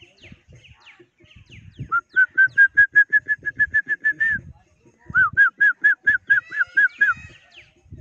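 A bird calling in two fast runs of short, clear whistled notes, about seven a second. The first run starts about two seconds in and lasts some two and a half seconds; the second follows after a short pause and lasts about two seconds.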